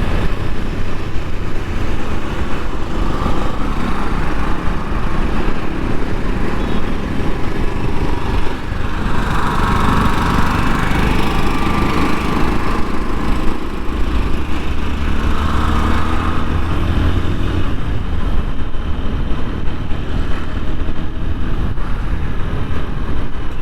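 TVS Apache RTR 160 4V single-cylinder motorcycle engine running steadily while riding, under heavy road and wind noise; the rider says the engine has a tappet noise.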